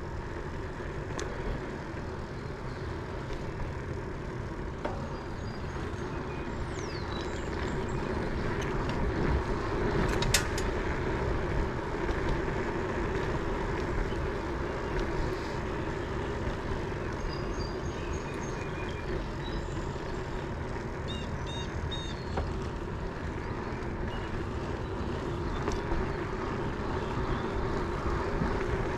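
Steady rumble of wind on the microphone and tyre noise while riding an Electra cruiser bicycle, with a few faint bird chirps in the middle stretch.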